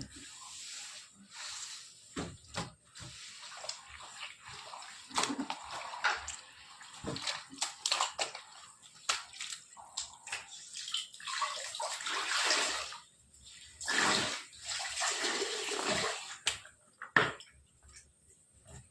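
Water splashing and pouring in irregular rushes of a second or two, with a few sharp knocks in between.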